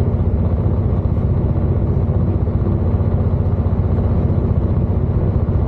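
Class 221 diesel-electric tilting train running at speed, heard inside the passenger cabin: a steady low rumble of the underfloor diesel engines and wheels on the track.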